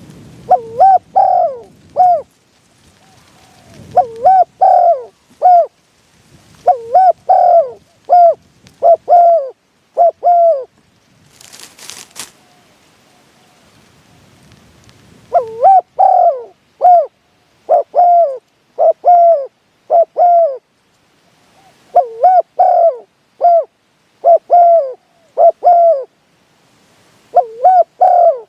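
Spotted dove cooing in repeated phrases of several quick, looping notes, a phrase every few seconds with short gaps between. A brief burst of noise comes near the middle.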